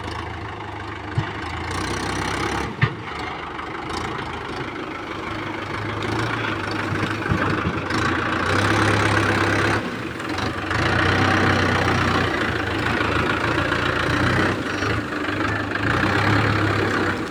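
Swaraj tractor's diesel engine running steadily, growing louder and working harder about halfway through. Two sharp clicks come in the first three seconds.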